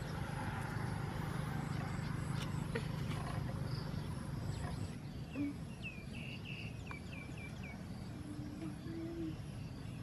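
Light clicks and rustles as a wire fan guard is handled on grassy ground. About six seconds in, a bird gives a quick run of seven or eight short, high chirps lasting about two seconds.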